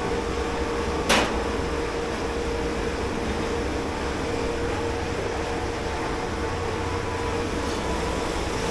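Steady machine hum with a constant low tone, the background of a commercial dish pit, broken by one sharp clank about a second in.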